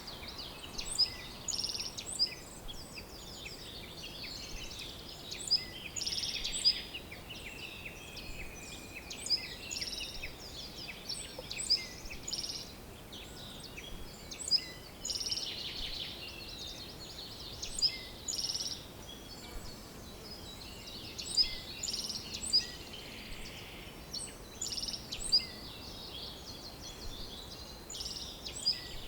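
Several songbirds chirping and trilling, a steady stream of short high calls overlapping one another, over a faint background hiss.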